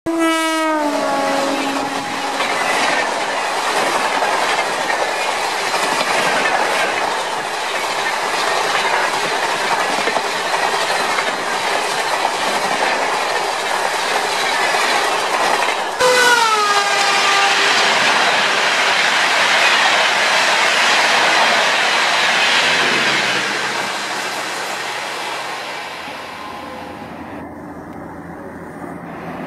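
Indian Railways express trains passing at speed. Twice, a locomotive horn blast drops in pitch as the engine goes by, followed by a long rush and rattling clatter of coaches over the rails. Near the end the noise fades to a quieter, steady low engine hum from a more distant approaching locomotive.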